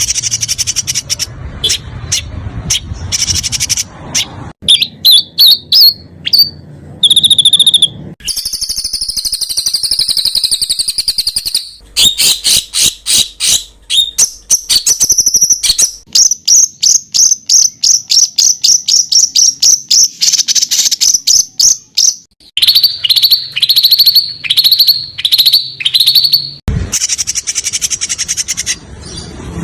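Small songbirds singing fast, loud, rough 'tembakan' song phrases of the kind used in masteran training recordings. The song has rapid runs of repeated high notes, a buzzy trill, and, near the end, a string of five quick downward-sweeping whistles.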